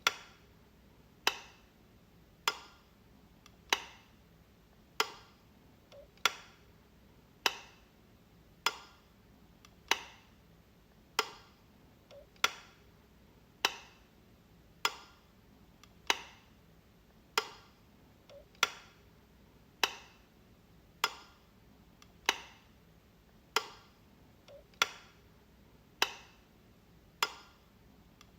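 Light switch clicking over and over, one sharp click about every 1.2 seconds in an even rhythm, each click dying away quickly.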